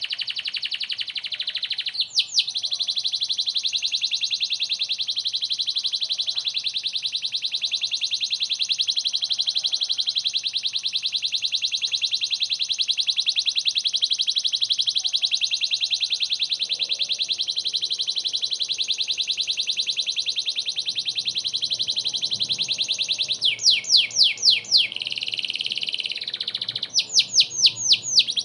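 Domestic canary singing a long, unbroken rapid trill, with two runs of loud falling notes near the end.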